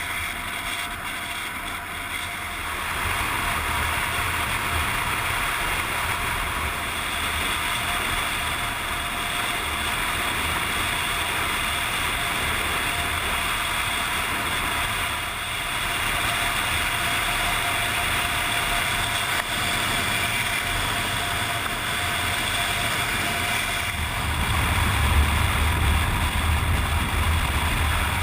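Motorcycle running at road speed: a steady engine drone under a constant rush of wind noise, with the low rumble growing louder near the end.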